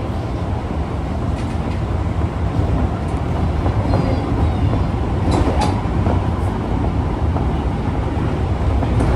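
Osaka Metro 22 series subway car 22962 running on the Tanimachi Line, a steady low rumble of wheels and running gear with a couple of sharp clicks about five and a half seconds in.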